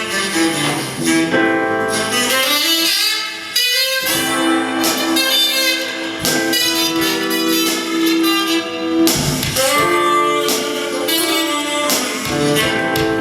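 Live band playing an instrumental break between sung verses of a song, with guitar and a melodic lead line of held notes.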